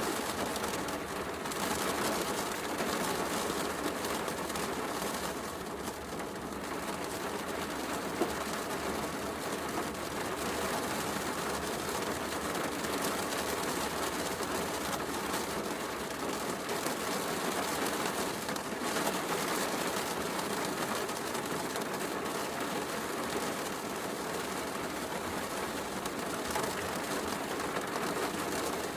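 Steady heavy rain hiss mixed with a wood fire crackling, with one sharper crack about eight seconds in.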